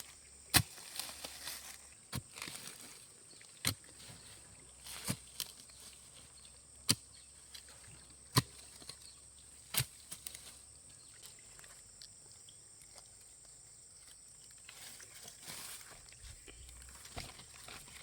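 A hand tool chopping into the ground or vegetation in a steady rhythm, about one sharp strike every second and a half, seven strikes over the first ten seconds. Softer rustling follows near the end.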